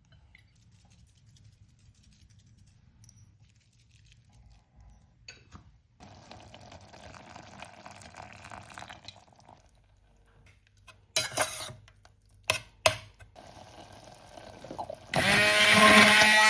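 Kitchen work sounds: a soft pour of liquid, a few sharp clinks of dishes or utensils, then a loud steady rush of water with a hum that starts abruptly near the end.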